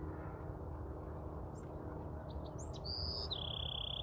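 A bird whistling a two-note call near the end: a short high note stepping down to a longer, steady lower note. A few short chirps come before it, over a low outdoor rumble.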